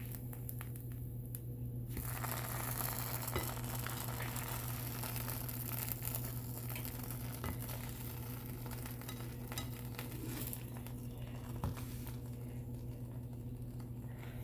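Butter and bread sizzling in a frying pan: a light crackling sizzle that swells about two seconds in and dies down near the end, over a steady low hum, with a few small clicks.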